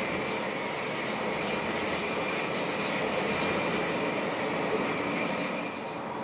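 Steady running noise of a moving coach bus, engine and road noise mixed together, with a faint steady whine above it.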